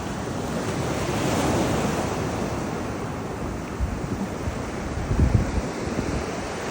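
Ocean surf washing up the beach, swelling about a second in. Wind buffets the microphone with low thumps around four and five seconds in.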